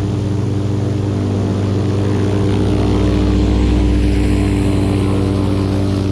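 SeaRey light amphibian's propeller engine running steadily close by, swelling slightly in level around the middle.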